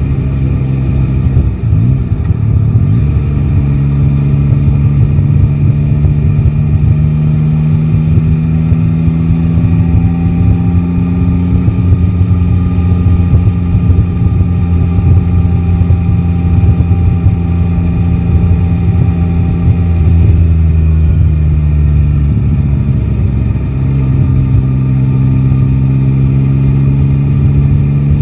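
Yamaha Tracer 9 GT's three-cylinder engine running under way at a steady pitch, heard from the rider's seat. The pitch changes briefly about two seconds in and again a little past twenty seconds in, as with a throttle change or gear shift, then holds steady again.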